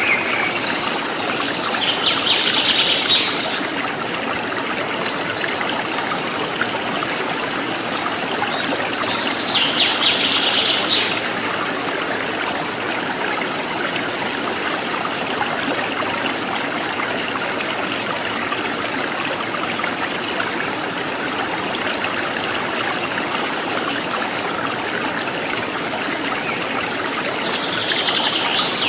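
Forest stream trickling and splashing steadily, with a wild bird giving a short call of rapidly repeated high notes three times: near the start, about ten seconds in and near the end.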